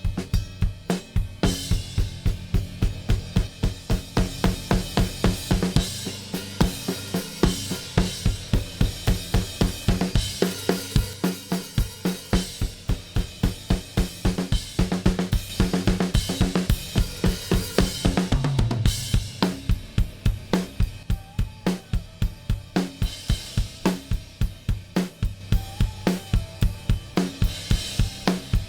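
Multitrack rock drum recording (kick, snare, hi-hat and cymbals) playing a fast, steady beat, run through a stereo bus compressor modelled on the SSL 4000 G-series centre compressor.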